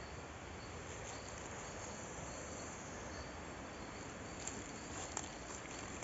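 Insects chirping: a short high note repeating about twice a second over a steady hiss, with a couple of faint clicks near the end.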